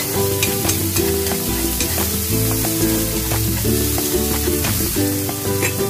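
Food sizzling in hot oil in a wok as it is stirred, under background music with changing chords.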